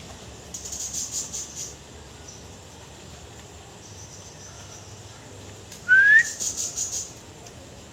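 Brown-chested jungle flycatcher calling: a quick series of high ticking notes about a second in, then near six seconds a loud, clear whistle rising in pitch, followed by another quick series of high ticking notes.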